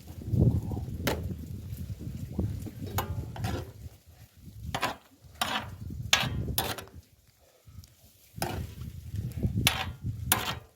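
A utensil scraping and knocking against a cast-iron cauldron-lid griddle as tteokbokki is stirred, a dozen or so short sharp clicks and scrapes spread irregularly over a low rumble.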